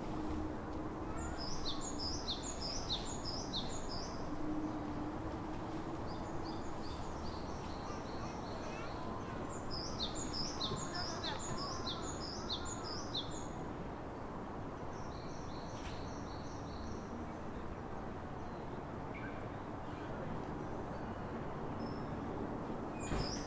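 A small songbird singing: phrases of quick, repeated high down-slurred notes, each about two seconds long, recurring four times over a steady outdoor background noise.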